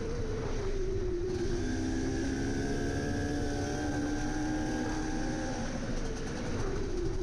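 Enduro motorcycle engine running as the bike rides along. The engine note drops as the throttle is eased off over the first second or so, holds steady for a few seconds, then rises again near the end as the rider opens it up, over a constant low rumble.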